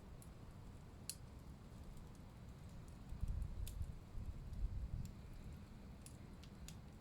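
Wood fire crackling in a fireplace: scattered sharp pops and snaps, the clearest about a second in and near the middle, over a soft low rumble of the burning.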